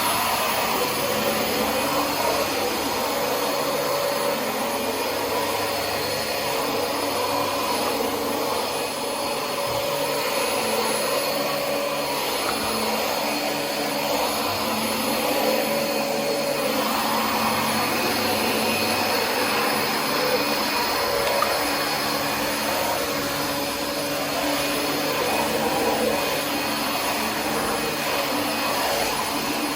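Dyson DC25 upright vacuum cleaner running steadily while vacuuming, a constant motor whine over the hiss of rushing air.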